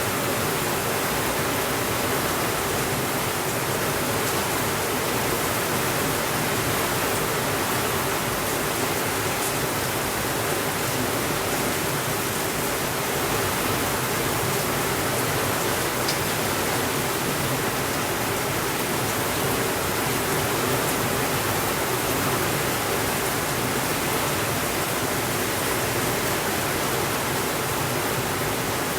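Steady rainfall, an even hiss with no breaks, with a couple of faint ticks.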